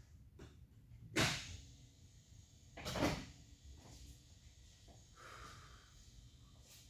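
Two sharp knocks about two seconds apart, with a few fainter clicks between them and a brief soft hiss later on.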